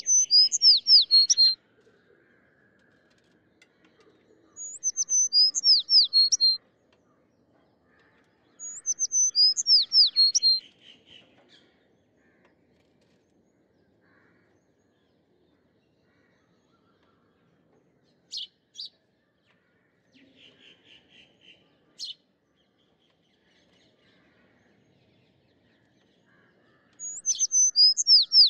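A small bird singing: a short phrase of quick, high, falling whistled notes over a lower trill, given three times a few seconds apart, then a long pause broken by a few single high notes and a faint trill, and the same phrase again near the end.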